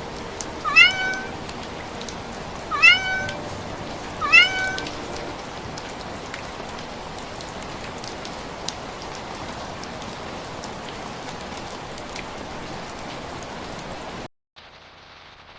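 A cat meowing three times, short calls that rise in pitch, over a steady hiss. The hiss cuts off abruptly near the end.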